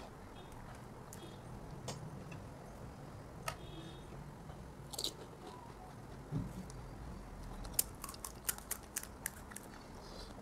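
A person chewing pani puri, the crisp fried puri shells crunching: a few scattered crunches, then a quick run of crisp crackles from about eight seconds in.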